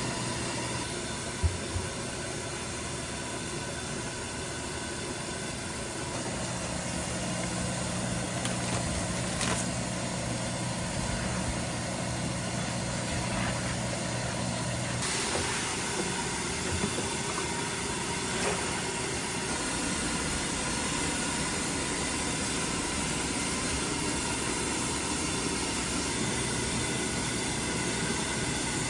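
A steady mechanical hum with hiss, with a few light knocks.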